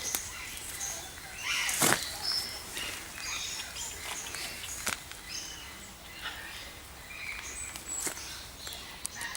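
Mixed aviary birds calling, with many short, high chirps and calls overlapping throughout and a loud, sharp call or knock about two seconds in.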